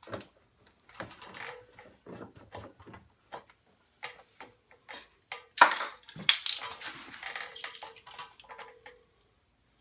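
Plastic side panel of a zero-turn mower being worked loose and lifted off: an irregular run of clicks, knocks and rattles, loudest a little past halfway.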